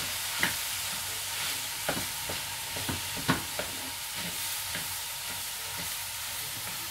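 Nasi goreng frying in a wok over a gas flame: a steady sizzle as cooked rice is stirred into the vegetables, with irregular knocks and scrapes of a wooden spatula against the wok.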